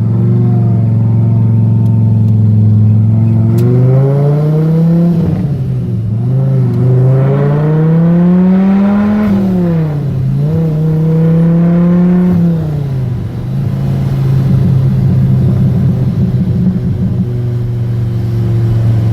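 Hennessey-modified 2002 Dodge Viper's V10 engine heard from inside the car while driving. It runs at a steady low pitch, then climbs in pitch twice under acceleration about four and seven seconds in, dropping back after each climb. It holds higher for a couple of seconds, then settles into a steady lower cruise for the last several seconds.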